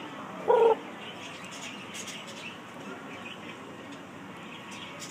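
A parrot gives one short, loud squawk about half a second in, with faint bird chirping in the background.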